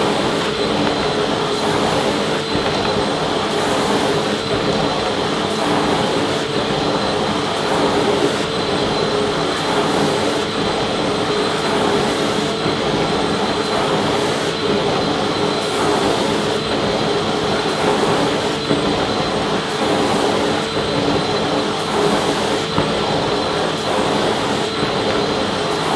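Vacuum cleaner running steadily: a continuous motor hum and rushing air, with a fixed whine held throughout.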